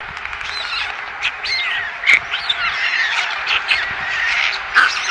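Birds chirping and squawking in a rapid, overlapping stream of short calls, with louder squawks about two seconds in and near the end: the calling of a parent bird feeding its young.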